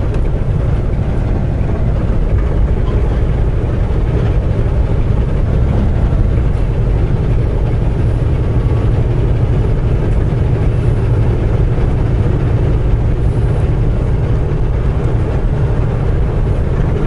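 Semi truck cruising on the highway: a steady low drone of diesel engine and road noise that holds even throughout.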